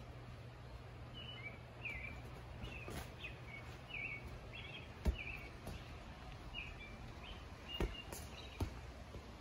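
A bird chirping over and over in short calls, over a steady low hum. Three sharp thumps from play on the trampoline come in the second half, the loudest about five seconds in and two close together near the end.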